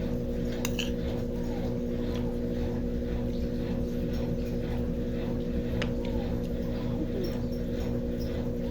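Brastemp Tira Manchas Advanced 17 kg washing machine on its spin cycle: a steady hum at an unchanging pitch over a low rumble, with a few faint clicks.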